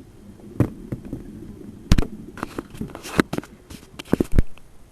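A series of irregular knocks and clicks over a faint low hum, the loudest about two seconds in and twice just past four seconds.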